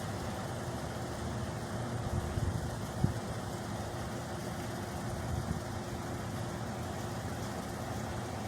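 Steady low hum of idling vehicle engines, with one sharp click about three seconds in.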